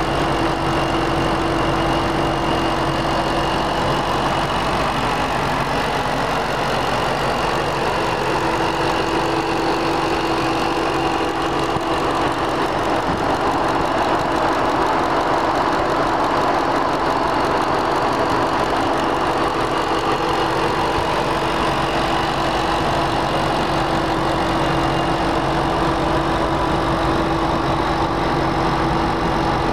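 2010 Shelby Mustang GT500's supercharged 5.4-litre V8 idling steadily, with no revving.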